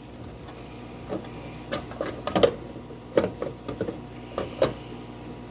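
Plastic clicks and knocks, a string of separate taps scattered over several seconds, as a lid is fitted onto a small aquarium, over a faint steady hum.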